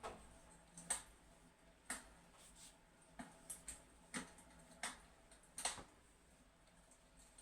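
Fireplace crackling: faint, sharp pops at irregular intervals, roughly one a second, with a few close together around the middle.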